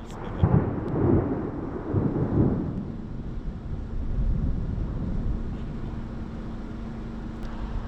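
Thunder rumbling from a supercell thunderstorm, loudest in the first three seconds and then slowly dying away, with a steady low hum underneath.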